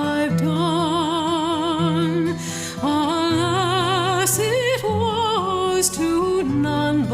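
Music: a singing voice with strong vibrato holding long, wavering notes over steady low sustained accompanying notes, with no bird sounds standing out.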